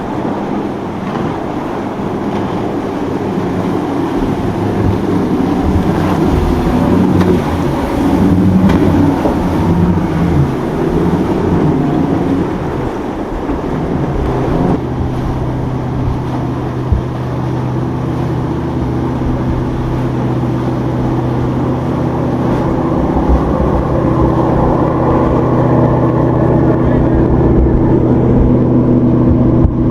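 Motorboat engines running as boats pass close by, mixed with wind and water noise; about halfway through a steady engine hum takes over and grows gradually louder as a boat approaches.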